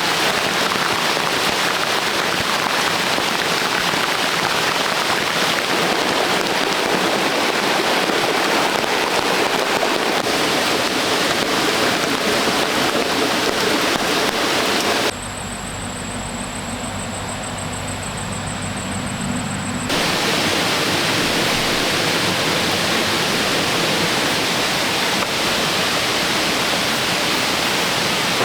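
Steady rush of heavy rain. About fifteen seconds in it gives way for about five seconds to a quieter, duller hiss with a thin, steady high whine, then the rain comes back.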